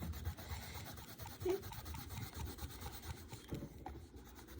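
Faint scratching of colored pencils on paper, with soft knocks against the table.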